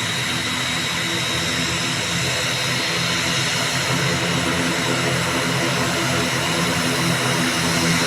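ATR 72-600 turboprop airliner's engines and propellers running steadily: a drone of several steady tones topped by a high whine, growing slightly louder about halfway through.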